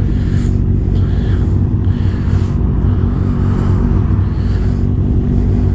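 Engine running steadily at an even, unchanging speed with a low, dense exhaust note; no revving.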